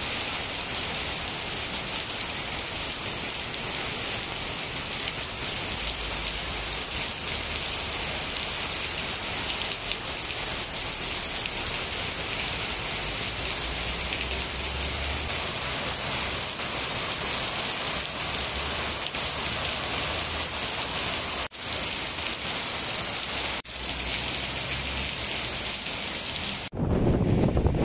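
Heavy rain pouring down steadily on surfaces all around. About a second before the end it cuts to low wind buffeting the microphone.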